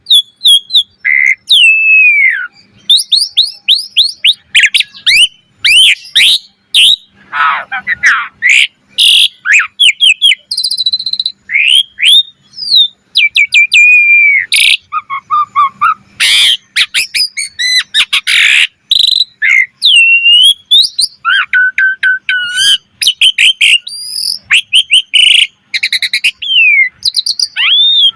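Asian pied starling (jalak suren) singing continuously and vigorously: a fast, varied string of whistles that slide up and down, quick chirps and harsh rasping notes, with hardly a pause between phrases.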